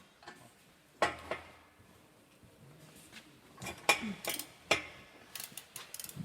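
Irregular metallic clinks and knocks from hand tools and metal parts being handled during exhaust work. They come in scattered strikes, with a busier cluster a little before the middle and another near the end.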